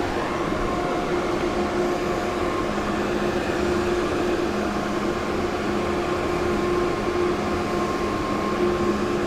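A steady mechanical drone: a constant rushing noise with a few held, unchanging hum tones.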